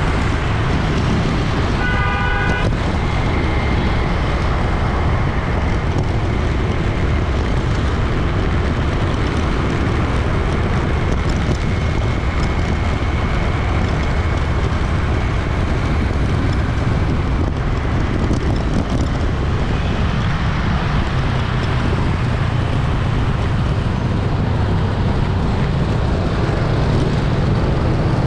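Busy city street traffic, a steady rumble and hiss of passing engines and tyres, with one short horn honk about two seconds in.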